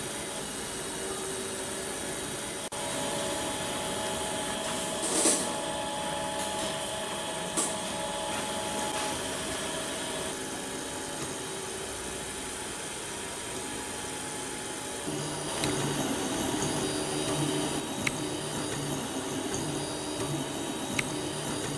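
Prusa i3 3D printer running: stepper motors whine in tones that shift every few seconds over a steady fan hiss, with a few brief louder bursts and clicks.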